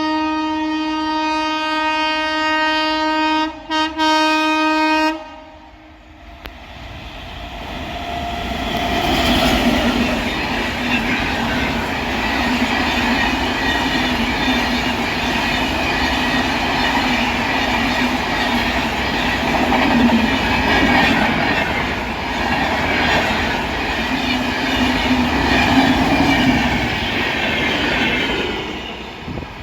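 Indian Railways electric locomotive horn sounding one long blast, with two short breaks near its end. After a brief lull, an express train passes at speed: the rush of the locomotive and coaches builds over a few seconds, holds steady while the train goes by, and fades near the end.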